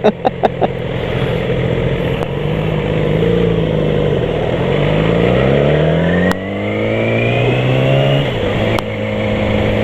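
Sport bike engine under acceleration, heard from the rider's helmet: its pitch climbs, dips briefly about six seconds in, climbs again with a rising whine, then drops to a steady lower note for the last second and a half.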